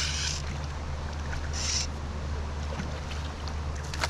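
Steady rush of flowing creek water, with two brief splashy hisses, one right at the start and one about a second and a half in, and a sharp click near the end.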